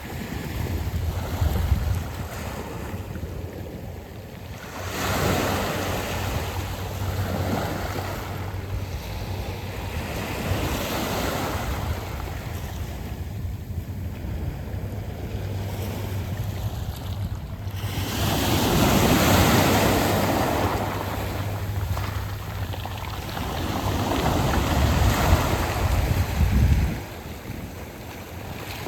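Sea waves washing up and drawing back over a beach of smooth round pebbles, in slow swells: one about five seconds in, the loudest a little past the middle, and another that cuts off near the end.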